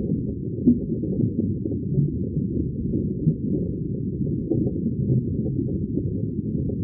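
Underwater bubbling ambience: a steady, dense stream of deep, muffled bubbles and gurgles, as heard under water.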